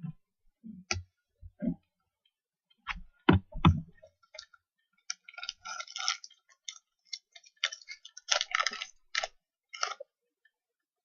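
Trading cards being handled: a few soft taps in the first four seconds, then quick rustling and sliding from about five to ten seconds in as the cards are flipped through.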